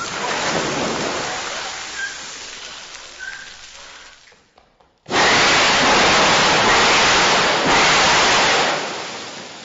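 Rushing, rain-like noise that fades away and drops to near silence about five seconds in, then cuts back in suddenly and loud and fades again near the end.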